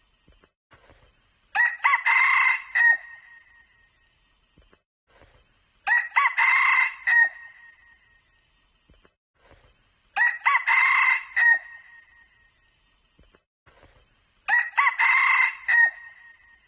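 Red junglefowl cock crowing four times, each a short clipped crow about a second and a half long, repeating evenly about every four seconds.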